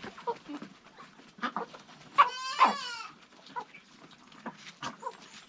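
A farm animal bleats once with a quavering call, about two seconds in, lasting just under a second, among scattered light taps and clicks.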